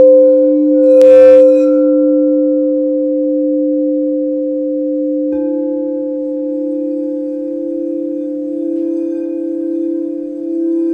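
Crystal quartz singing bowls ringing with two steady, sustained tones, one low and one higher. About a second in, a short bright strike rings over them. About five seconds in, another bowl is struck with a soft click and adds a slightly higher note that swells and pulses.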